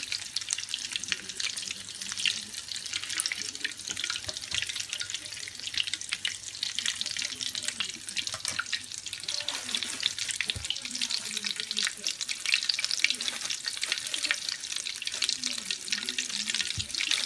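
Breaded sausage rolls deep-frying in a pan of hot oil at medium heat: a steady, dense crackling sizzle full of tiny pops.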